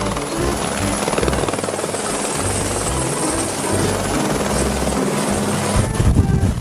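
Helicopter sound with the rotor chopping fast and steady, over background music with low notes.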